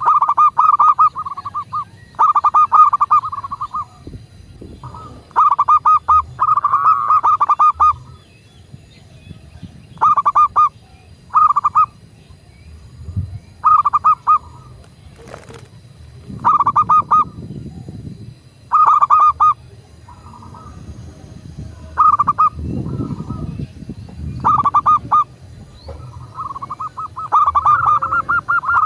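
Zebra dove (perkutut) cooing: short bursts of rapid, stuttering coos repeated every couple of seconds, with a low rumble of background noise in between.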